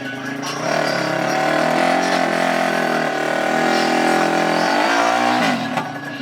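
A small off-road racing engine accelerating hard. Its pitch climbs steadily for about four seconds, then drops and fades quickly near the end as it passes by.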